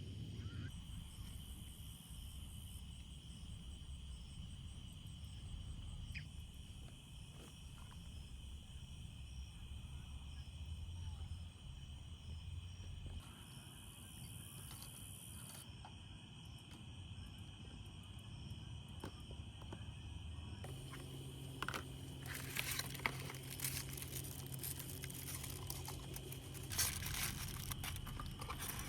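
Insects trilling steadily outdoors. About two-thirds of the way through, a low steady hum sets in, and near the end there are runs of sharp crackles and clicks.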